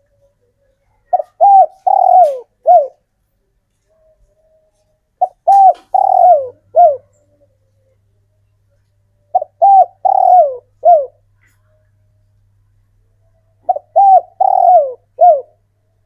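Male spotted dove cooing its song in four phrases about four seconds apart. Each phrase is a few short coos, one longer falling coo, then a short final coo. This is the song used to call females and draw other doves to answer.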